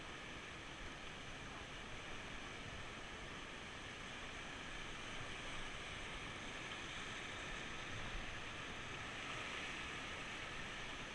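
Steady rushing of a fast mountain river's rapids, an even wash of water noise with no break.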